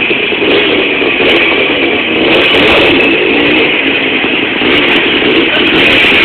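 Jawa motorcycle engine running, loud and steady.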